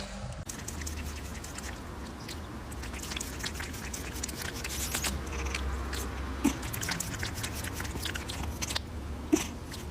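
An animal chewing: a string of small, irregular crunchy clicks over a low steady hum.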